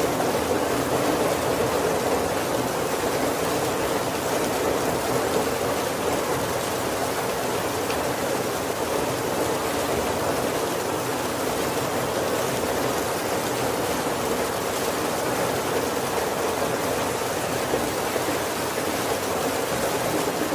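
Heavy rain falling steadily on the roof and windows of a wooden carriage, heard from inside as an even, unbroken hiss.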